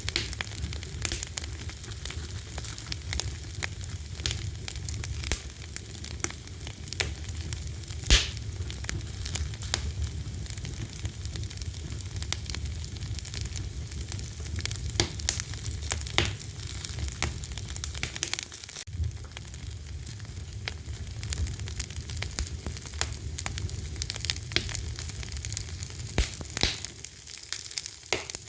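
Fire crackling: a dense, irregular run of small pops and snaps over a steady low rumble, with one loud pop about eight seconds in.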